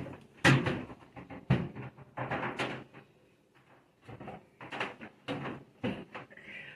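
Kitchen things being moved and set down on a countertop: a string of sharp knocks and clatters, most of them in the first three seconds and a few more after about four seconds in.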